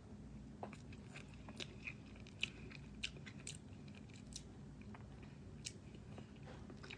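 Faint close-up eating sounds of Kit Kat ice cream being chewed: irregular small clicks and crunches, a dozen or so, from the mouth and the wafer pieces.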